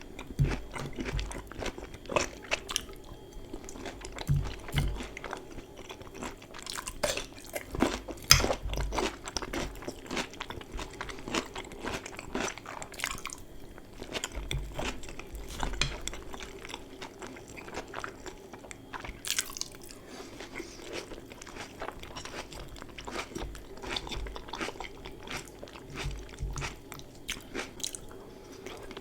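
Someone biting and chewing crunchy food close to the microphone: an irregular run of sharp crunches with louder bites every few seconds.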